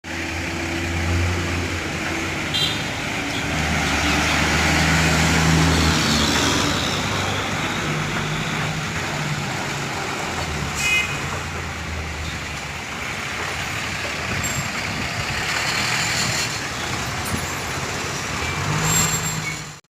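Heavy vehicle engines running amid street traffic noise, the engine hum shifting in pitch, with a few brief clanks.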